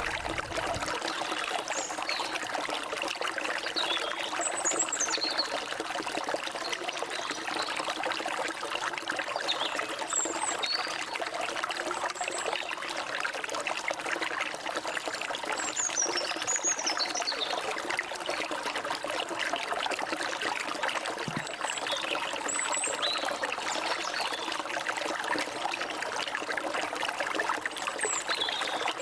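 Forest stream flowing and trickling steadily, with short high bird chirps now and then.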